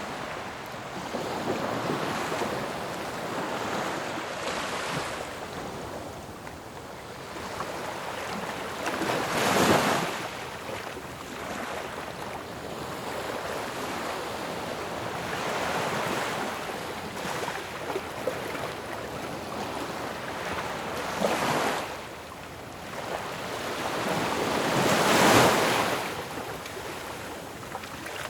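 Ocean waves breaking on a shore: a steady rushing wash of surf with waves crashing at intervals of several seconds, the loudest about ten seconds in and again near the end.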